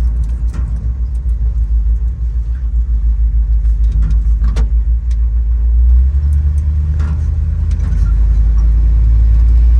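Old Ford pickup being driven, heard from inside the cab: a steady low engine and road rumble with a fluttering loudness, and a few sharp clicks and rattles. The low rumble swells slightly about six seconds in.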